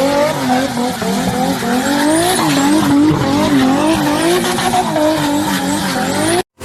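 A car engine revving up and down in quick, repeated swings of pitch, with tyre squeal under it, as a car slides under throttle. The sound cuts off abruptly near the end.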